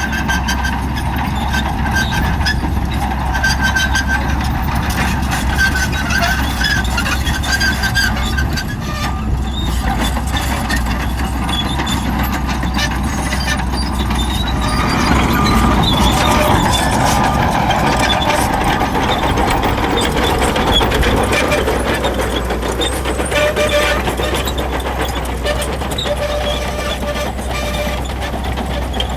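Shantui crawler bulldozer running, its diesel engine a steady low rumble, with high squealing and clicking from the steel tracks; the machine grows louder about halfway through.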